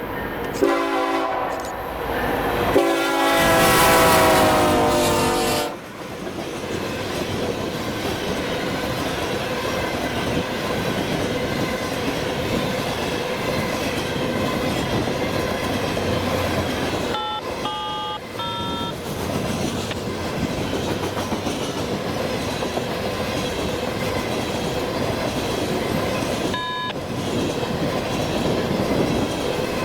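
Freight train locomotive sounding its horn, a short blast then a long one, followed by the train rolling past with steady wheel and rail clatter. A few brief high squeals from the wheels come in the middle and again near the end.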